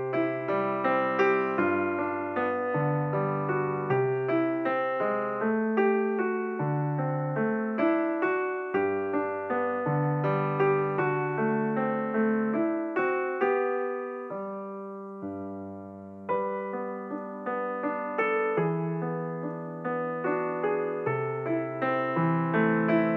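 Background piano music: a melody of struck notes over sustained bass notes. It thins and softens about two-thirds of the way through, then picks up again.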